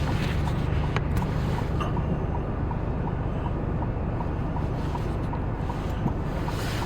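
Steady vehicle engine and road noise heard from inside a car while driving, with a light regular ticking about two to three times a second.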